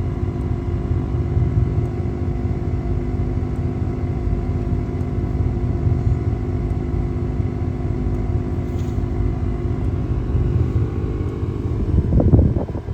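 Vehicle engine running at a steady speed, a low rumble with a steady hum over it, and a brief louder surge near the end.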